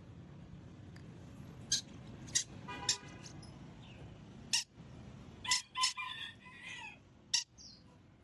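A parrot giving a series of short, sharp, high calls, about eight spread over several seconds, with a longer call a little after the middle.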